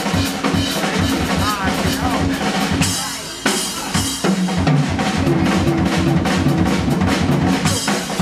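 Live jazz band playing, with a busy drum kit (kick, snare and rimshots) loudest in the mix over pitched low notes.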